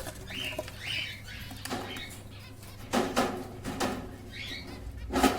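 Lovebirds giving short, scattered chirping calls, mixed with wing flapping and rustling. A sharp knock or rustle near the end is the loudest sound.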